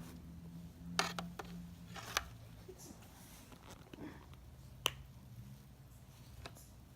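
A macaw making scattered sharp clicks and taps. There is a quick cluster about a second in, another around two seconds, and single clicks near five and six and a half seconds, over a low steady hum.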